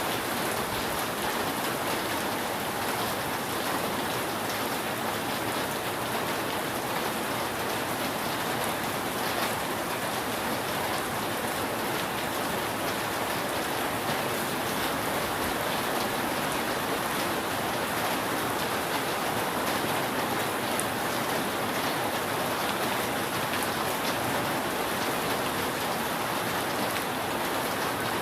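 Steady rain falling on a roof, a dense even hiss with scattered individual drop ticks; no thunder.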